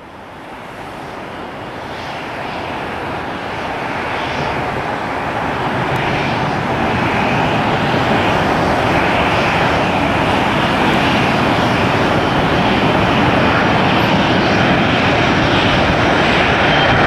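Airliner's engines passing close by: the noise builds steadily over the first several seconds, then holds as a loud, steady rumble with a hissing upper edge.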